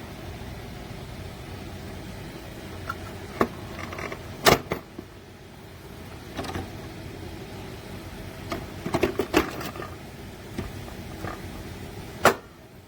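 Small electric mini dehumidifier running with a steady low fan hum. Sharp clicks and knocks of the unit being handled sound over it, the loudest about four and a half seconds in, a quick cluster around nine seconds and one near the end.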